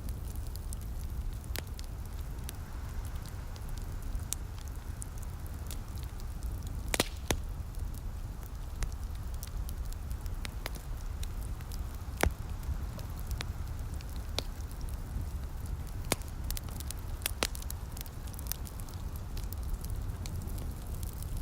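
Wood fire crackling, with irregular sharp pops over a steady low rumble. Louder pops come about seven seconds in and again about twelve seconds in.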